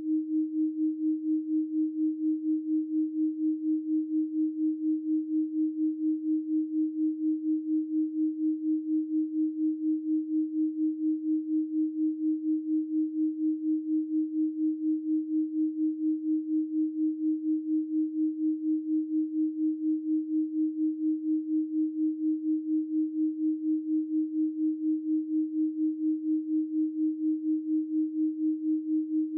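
A steady synthesized 312 Hz pure sine tone, one unchanging low-mid pitch, its loudness wavering evenly several times a second.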